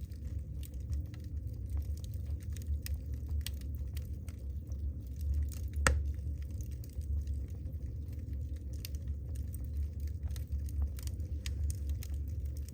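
Wood fire burning in a fireplace, crackling with frequent short pops and one louder snap about six seconds in, over the steady low rumble of the flames.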